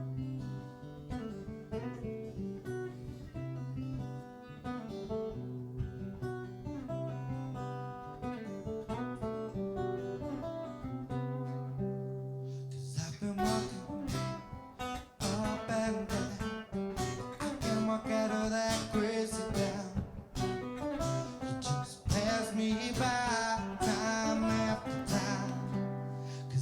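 Acoustic guitar playing an instrumental song intro: picked notes at first, then about halfway through the playing turns fuller and brighter, with many sharp attacks.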